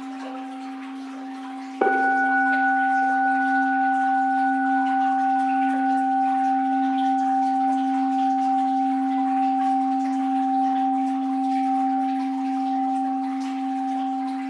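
A Japanese orin (Buddhist bowl bell) struck once about two seconds in, then ringing on with a low hum and higher overtones that fade slowly and waver gently.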